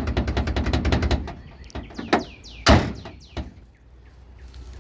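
Car door of a stripped Mazda Protege race car being worked after its bent, dragging door was straightened: a rapid run of clicks for about a second, then two sharp knocks, the second the loudest, near the middle.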